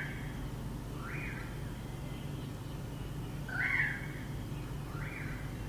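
A bird calling in short, clear notes in pairs, a louder note followed by a softer one about a second and a half later, over a steady low hum.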